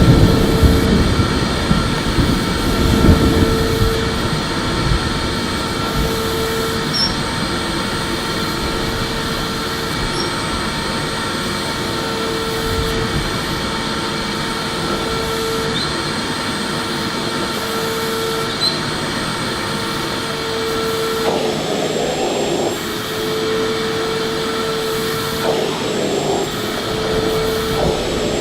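Electric vacuum cleaner running steadily: a constant motor whine over rushing air. It is louder with a deeper rumble in the first few seconds.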